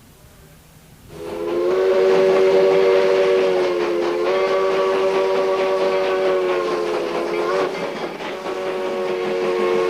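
Steam locomotive chime whistle sounding a chord of several pitches: one long blast starting about a second in, a short break, then a second long blast, over the rushing noise of the moving train.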